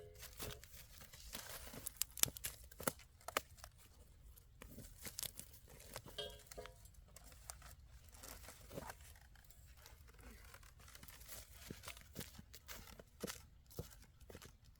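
Faint scattered crackling and rustling, irregular sharp clicks, with a short pitched call at the start and again about six seconds in.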